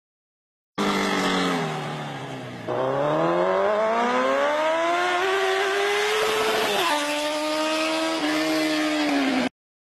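Racing car engine revving. Its pitch sinks for the first couple of seconds, then climbs steadily through the revs, steps up again about seven seconds in and eases off at the end. It starts and cuts off abruptly, like a dubbed-in sound effect.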